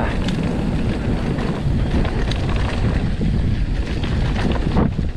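Wind buffeting the microphone of a camera on a moving mountain bike, over the rumble of tyres on a dirt trail, with scattered sharp knocks and rattles from the bike.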